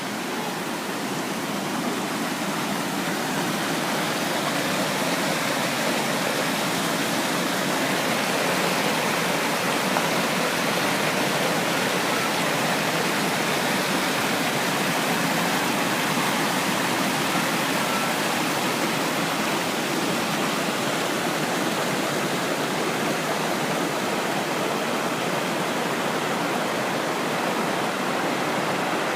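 Pistyll Rhaeadr waterfall roaring, a steady, loud rush of falling water that swells a little over the first few seconds.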